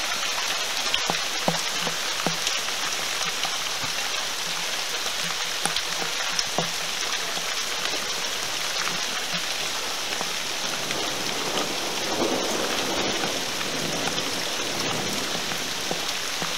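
Steady, heavy rain falling in a thunderstorm: an even hiss with scattered sharper drop ticks close by.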